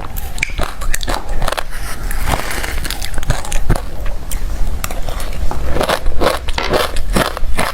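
Refrozen crushed ice being bitten and chewed close to the microphone: hard, crunchy cracking, quieter in the middle and coming in quick bites near the end.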